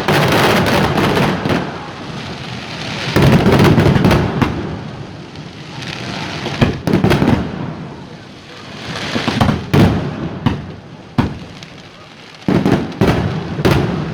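Aerial fireworks going off: a series of sharp bangs and crackling bursts in clusters, with dense volleys about three seconds in and again near the end.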